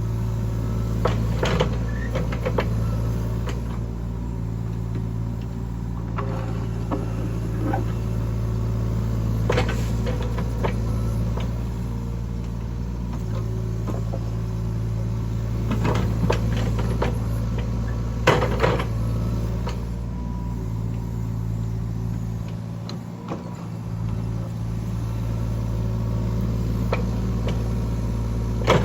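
Heavy earthmoving machine's engine running steadily, with occasional sharp metallic clanks and scrapes from the working equipment. The engine note drops away briefly about two-thirds of the way through.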